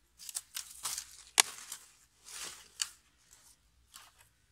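Crisp tearing and crackling as poplar mushroom clusters are broken off a cut poplar stump, with a sharp snap about a second and a half in and another near the three-second mark.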